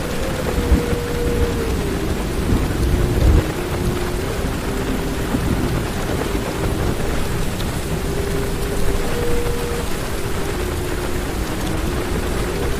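Heavy rain falling steadily on a car's roof and windows, heard from inside the car, with low rumbles of thunder about a second in and again around three seconds in.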